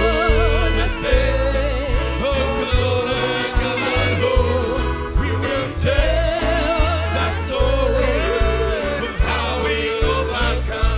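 Gospel praise song with a steady beat and heavy bass, a voice or lead instrument carrying a wavering, vibrato-laden melody.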